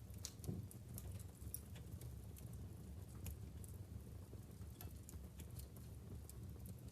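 Wood fire burning in a fireplace: logs crackling with irregular sharp pops over a faint low rumble of the flames.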